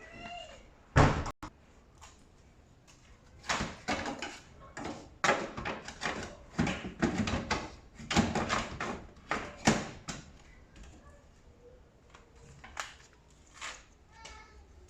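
Clunks and knocks of tumble dryer parts being handled and fitted during assembly. There is one loud knock about a second in, then a run of irregular clunks and rattles, busiest between about three and ten seconds, thinning out near the end.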